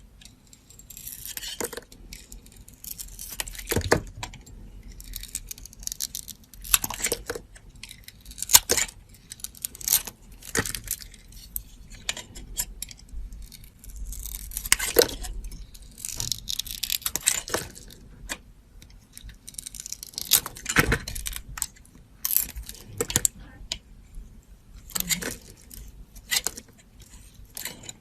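Dry soap being cut with a knife: a series of crisp, crackly cutting strokes, one every second or two.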